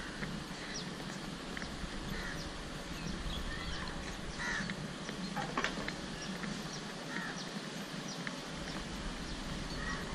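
Birds calling: several short calls scattered through, over a steady outdoor background.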